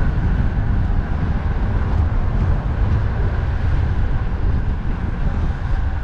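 Strong wind buffeting the microphone on a moving bicycle, a steady low rumble that churns without letting up.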